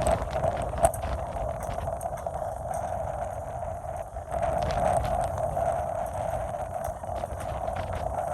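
Strong wind buffeting the microphone with a low rumble, and a steady mid-pitched howl that swells and fades; scattered clicks and a sharper knock about a second in.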